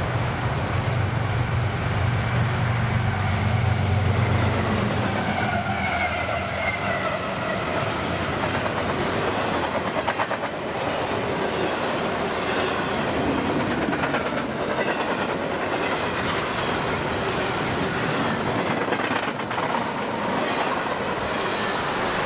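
Freight train passing close by: a GE ES40DC diesel locomotive's engine hum for the first few seconds, then intermodal cars rolling past with a steady rumble and the clickety-clack of wheels over the rail joints.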